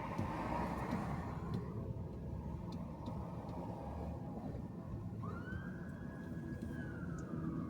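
A car driving, with steady road and engine rumble. About five seconds in, an emergency vehicle's siren rises quickly, holds, and starts a slow fall.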